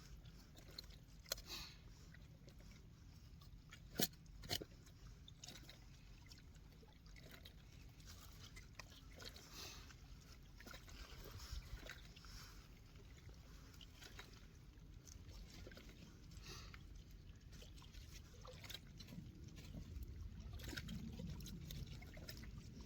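Faint water lapping and trickling over a low rumble, with a few sharp knocks in the first few seconds.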